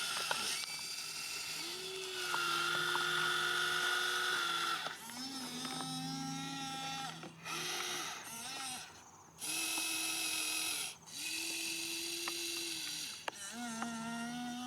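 Whine of the small electric motors and gearboxes of radio-controlled toy construction vehicles, running in stretches of one to three seconds and stopping in between, the pitch stepping up and down as the controls are worked.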